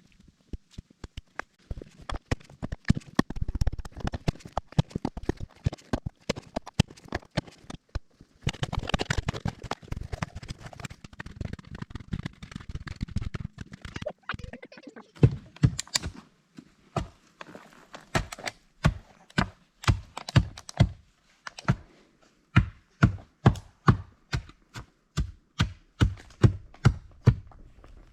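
Shovel digging a post hole in gravelly ground: repeated sharp strikes and scrapes of the blade on stones, becoming a regular chopping rhythm of one to two strikes a second in the second half.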